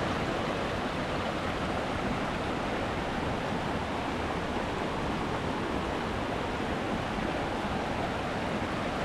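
Waterfall on a mountain creek, with a steady, unbroken rush of falling water.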